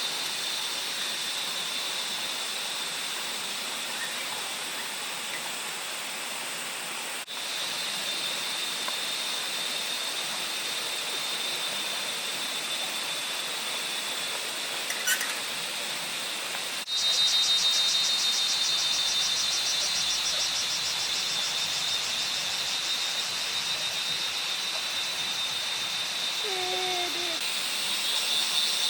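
Forest ambience: a steady, high-pitched insect drone over a background hiss. It steps up louder with a fast pulsing about halfway through, and a couple of faint short calls come near the end.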